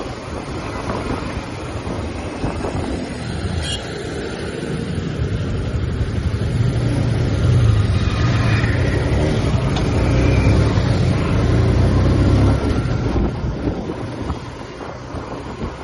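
TVS Apache RTR 180's single-cylinder engine and exhaust under way, pulling harder from about four seconds in, running loudest through the middle, then easing off near the end.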